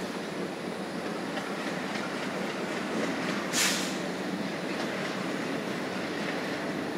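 Passenger train coaches running along the track: a steady rolling rumble with a few light wheel clicks over the rails. A short, sharp hiss comes about three and a half seconds in.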